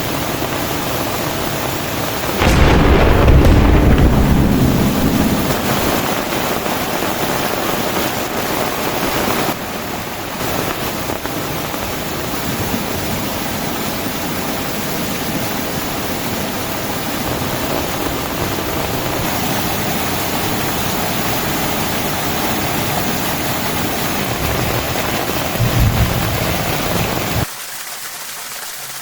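Heavy tropical rain pouring steadily, with a loud clap of thunder about two and a half seconds in that rumbles away over a few seconds. A shorter low boom comes near the end, and then the rain drops suddenly to a softer level.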